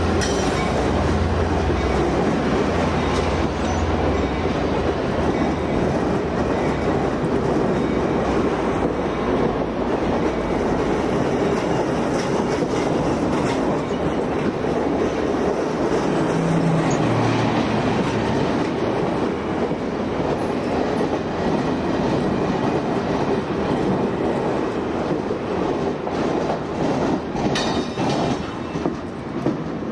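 A train running on the rails: a steady rumble with wheels clattering over the rail joints, and a few sharper clicks near the end.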